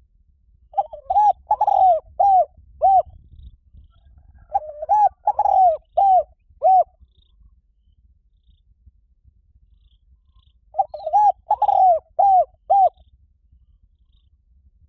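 Spotted dove cooing: three phrases of about five or six rising-and-falling coos each, several seconds apart.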